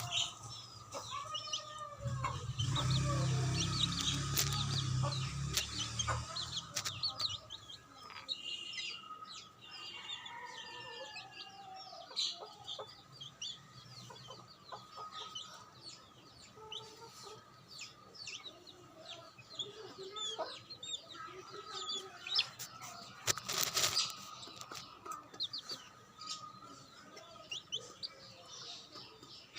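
Baby chicks peeping constantly in quick, high chirps, with an adult rooster clucking and calling louder and deeper between about two and seven seconds in. A brief rustling burst comes about twenty-four seconds in, and a faint steady high tone runs underneath.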